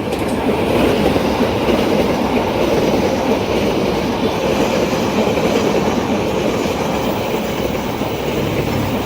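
A long train passing fast and close, its wheels running over the rails in a loud, steady rumble with a clickety-clack.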